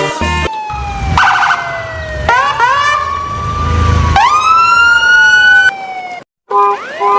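Siren-like wailing tones that slide slowly down over a couple of seconds and then sweep back up, twice, cutting out briefly near the end.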